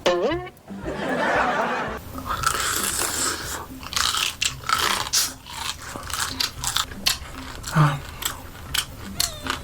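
Close-up eating of crab: biting and chewing with many sharp, irregular crunches. It opens with a brief sliding tone.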